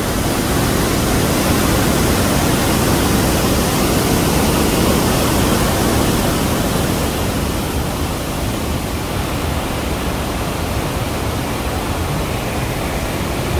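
Iguazu Falls: a loud, steady rush of falling water, a little stronger in the first half.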